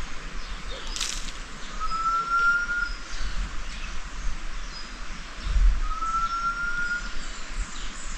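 A bird whistling a long, slightly rising note twice, about four and a half seconds apart, over a low rumble of wind.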